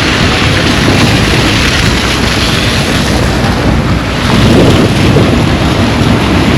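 Loud, steady rushing noise of wind buffeting the microphone, swelling briefly about four and a half seconds in.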